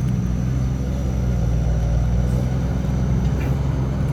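Heavy diesel engine running steadily at an even, unchanging pitch.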